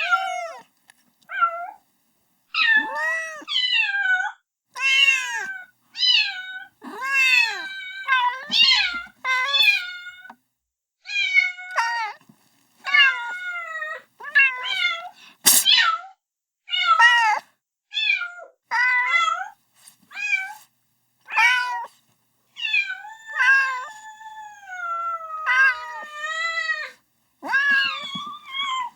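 Kitten meowing over and over, calling for its mother: over twenty short, high-pitched meows with brief pauses between them, many rising and then falling in pitch. A single sharp click sounds about halfway through.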